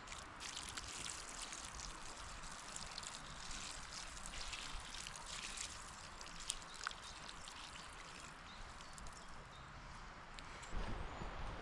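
Water being poured over a campfire's embers to put it out: a steady watery hiss with scattered small crackles.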